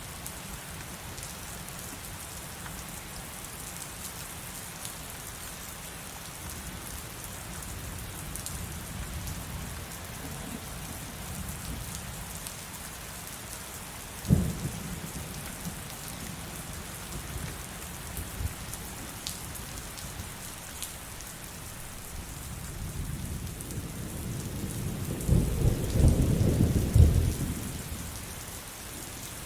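Steady heavy rain with a sharp thunderclap about halfway through, then a long rolling rumble of thunder that builds and swells near the end before fading.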